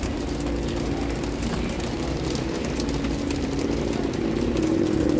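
Steady rain with a constant low rumble of traffic, growing a little louder near the end.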